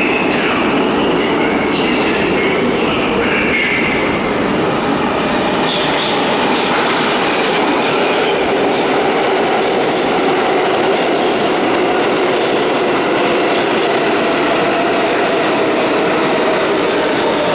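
R142A subway train running through the station: a loud, steady rumble of steel wheels on rail, with high-pitched wheel squeal in the first few seconds.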